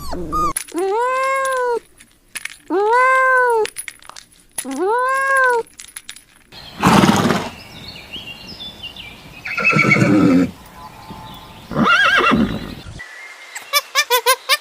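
A run of different farm animal calls: three separate pitched calls, each rising and falling over about a second, then three rougher calls, and a quick run of short chirps near the end.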